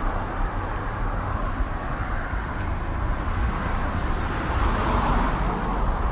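Road traffic rumbling past, swelling and easing, with a constant high-pitched tone over it.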